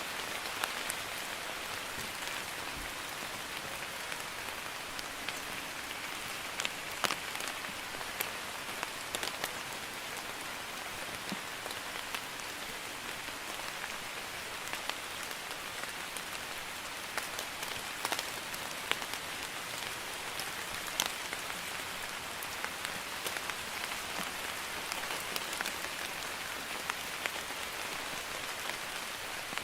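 Light drizzling rain falling steadily, an even hiss dotted with scattered sharp drips of single drops.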